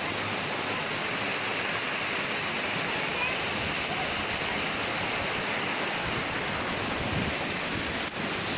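Waterfall rushing steadily, a dense, even hiss of falling water.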